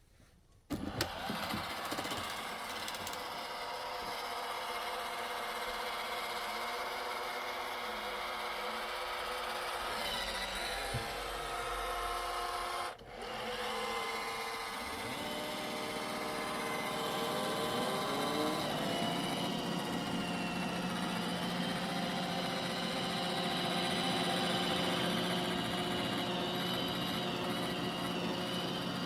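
iRobot Roomba i7+ robot vacuum running: a steady motor whir with tones that slide up and down as its motors change speed. It starts suddenly about a second in and briefly drops out about halfway through.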